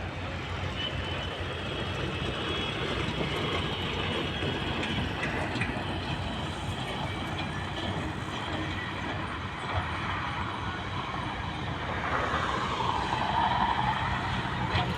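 Heavy diesel construction machinery running steadily, an excavator or tipper truck at work, with a whine that falls and rises again near the end.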